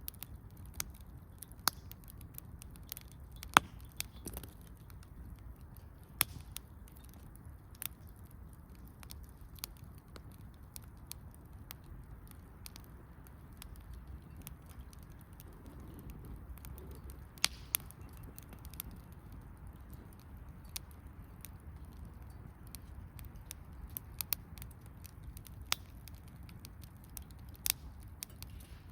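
Wood campfire crackling, with irregular sharp pops scattered throughout. The loudest pop comes about three and a half seconds in.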